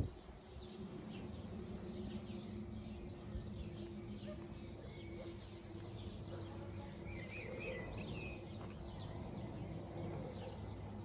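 Small songbirds chirping with many short, high calls throughout, over a steady low hum.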